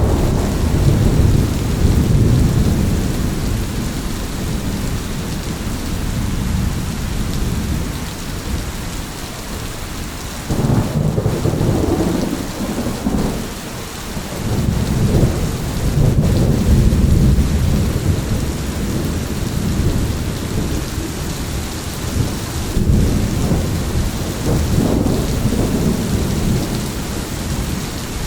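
Steady heavy rain with rolling thunder: several low rumbles swell and fade over the rain, the strongest starting suddenly about ten seconds in and again around fifteen to eighteen seconds.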